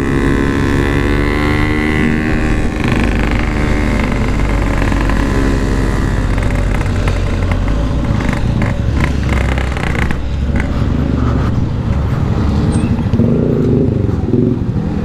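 Yamaha RX-King 135 cc two-stroke motorcycle engine running on the move, its revs easing off over the first few seconds, then running lower and rougher, with wind rumbling on the microphone.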